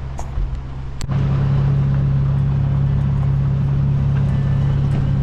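A vehicle engine running steadily with a low, even drone. A sharp click comes about a second in, after which the drone is louder.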